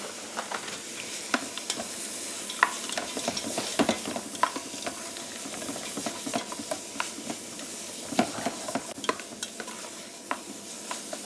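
Chanterelles, black trumpet mushrooms, onion and garlic sizzling in a stainless steel pot while a wooden spoon stirs them, with a steady frying hiss and scattered scrapes and knocks of the spoon against the pot.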